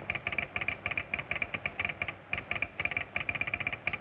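Morse code: a fast, irregular string of short and long beeps at one steady pitch.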